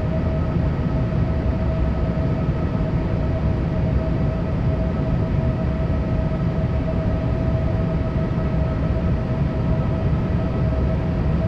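Boeing 787 airliner cabin noise: a steady low rumble and rush of air with a steady whine on top.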